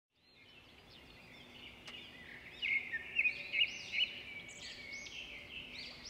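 Several birds chirping and calling at once, short tweets and quick up-and-down whistles overlapping, fading in at the start and louder from about two and a half seconds in.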